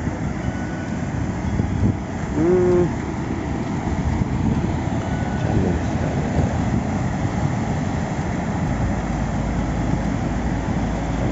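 Steady rumble of a moving vehicle on the road, with a short, loud pitched sound about two and a half seconds in.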